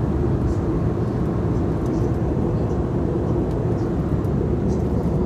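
Steady airliner cabin noise: an even engine and air rumble, heaviest in the low range, with a few faint ticks above it.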